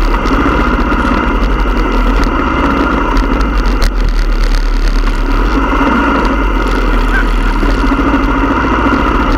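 Motorcycle engines running steadily at low revs, with one short click about four seconds in.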